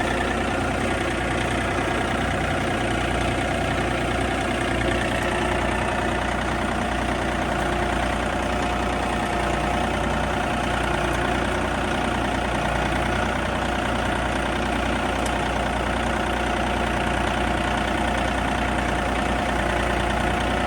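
John Deere tractor with a hydrostatic transmission, its engine running steadily as it hauls a deer stand.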